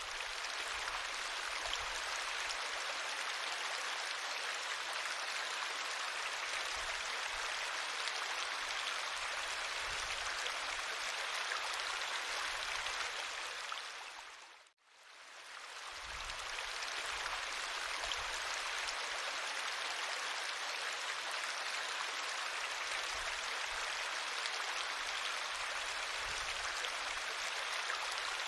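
River water flowing, a steady rushing. About halfway through it drops out suddenly and fades back in over a second or two.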